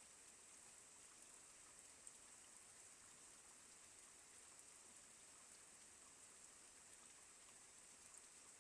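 Faint steady rain, a soft hiss with scattered small drop ticks.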